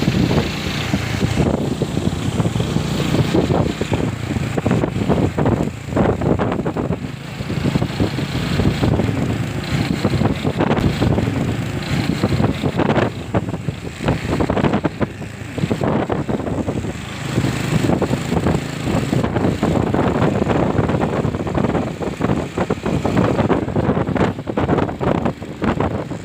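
Motorcycle riding along the road, its engine a steady low rumble under heavy wind buffeting on the microphone.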